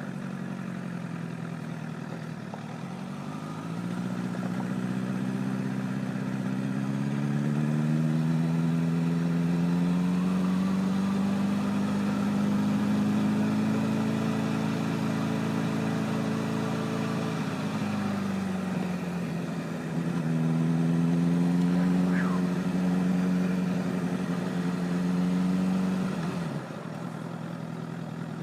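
Honda CBR1000RR's inline-four engine riding at low speed: the engine note rises over several seconds, holds steady, dips briefly near the middle, climbs again, then drops back to a low run a couple of seconds before the end.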